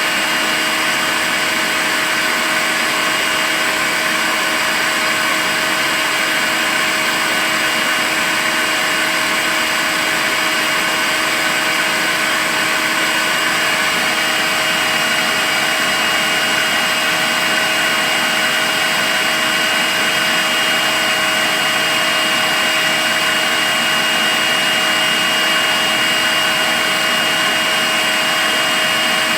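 Makita cordless stick vacuum cleaner running steadily: an even motor whine with a high steady tone over a continuous rush of air.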